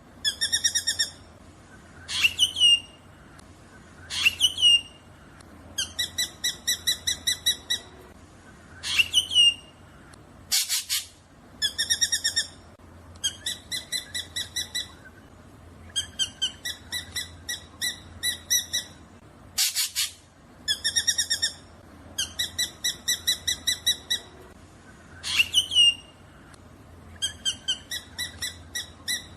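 Black drongo calling: rapid strings of harsh, evenly spaced notes, several a second for a second or two at a time, mixed with quick rising whistled sweeps and a few short harsh rasps, the same sequence recurring about every ten seconds. A faint steady low hum lies underneath.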